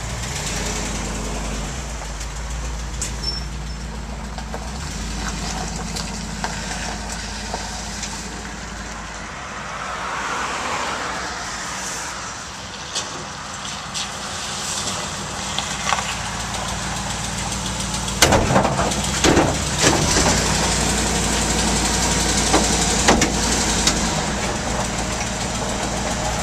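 Vehicle engine idling with a steady low drone. A run of sharp knocks and clatter comes about eighteen seconds in.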